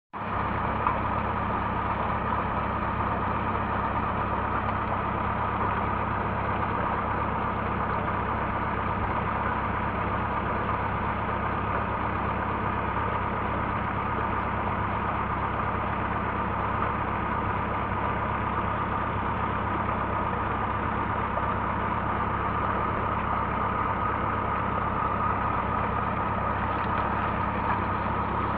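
Tractor's diesel engine running at a steady speed, driving a tubewell pump.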